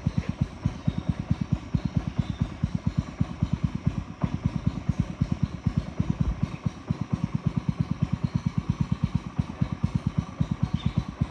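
Small boat motor running steadily, a rapid, even chugging of low exhaust pulses.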